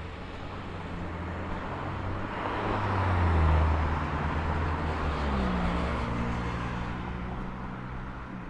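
A motor vehicle passing by: engine and road noise swell to a peak about three and a half seconds in, then fade away.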